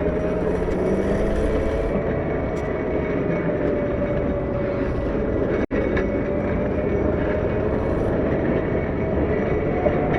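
CAT 908 wheel loader's diesel engine running steadily while working, its pitch drifting slightly up and down. The sound drops out for an instant about halfway through.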